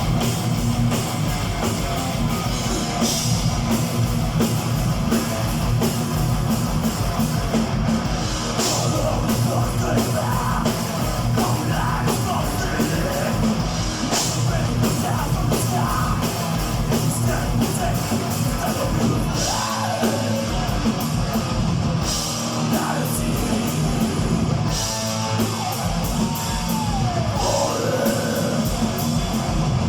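Thrash metal band playing live: distorted electric guitars and fast drums, with shouted vocals.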